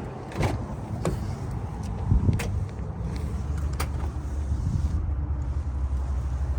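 Several sharp clicks and knocks from the minivan's interior fittings, then a steady low mechanical hum that comes in about three seconds in.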